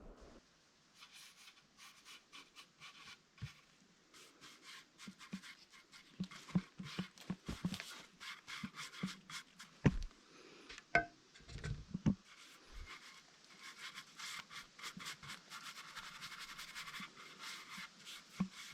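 Scratching and rapid clicking with a few dull knocks about ten and twelve seconds in.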